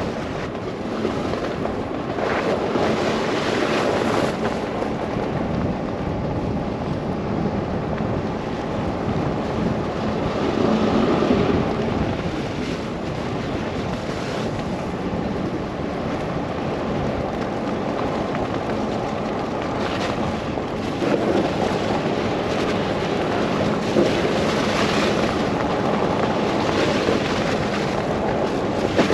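Blizzard wind gusting against the microphone of a moving car, a steady rushing noise that swells and eases several times, with road and engine noise beneath.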